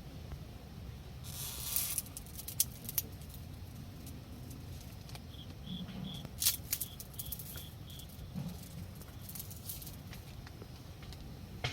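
Faint rustling and a few sharp clicks, with a short high-pitched chirp repeating about four times a second in two stretches, the second starting about five seconds in.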